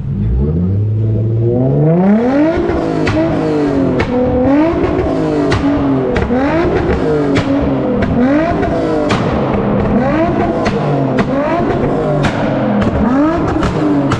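Car engine revved hard over and over in a tunnel. The pitch climbs for the first two seconds, then rises and falls about once a second, with sharp exhaust pops and crackles between the revs.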